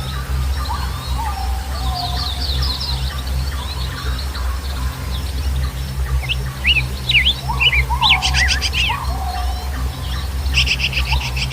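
Several birds calling together: quick chirps, whistled notes that slide down, and rapid trills, two of them about two-thirds of the way in and near the end. Under them runs a steady low hum.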